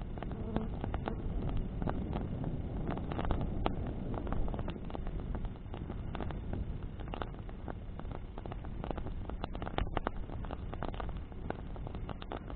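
Bonfire of burning branches crackling, with frequent sharp pops and snaps over a steady low rush of flame in the wind.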